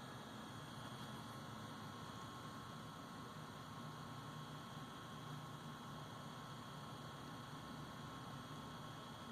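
Steady electrical hum under a constant hiss, with a few faint high steady tones and no distinct events.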